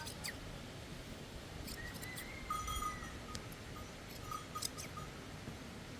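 Scattered sharp clicks of hand shears snipping through a sheep's fleece. A thin, high, drawn-out call starts about halfway through and lasts a couple of seconds.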